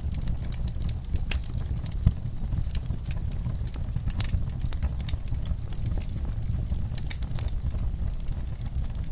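Wood fire burning in a fireplace: a low steady rumble of the flames with irregular crackles and small pops, one louder pop about two seconds in.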